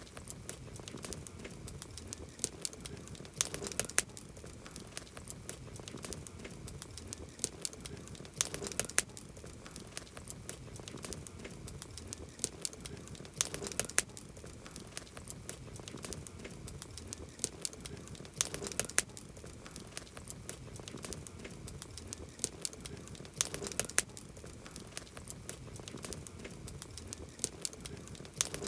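Wood campfire burning, crackling steadily with frequent sharp pops. A cluster of louder pops recurs about every five seconds.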